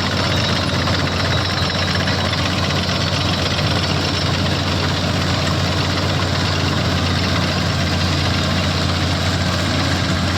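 CLAAS combine harvester's diesel engine running steadily, with a deep even hum and the machine's working noise.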